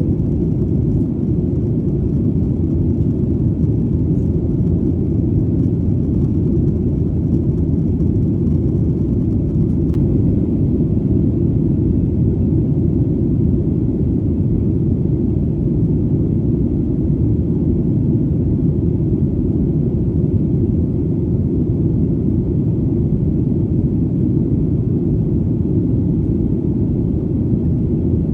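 Airplane in flight: a steady, deep rumbling drone of engines and rushing air, unchanging throughout.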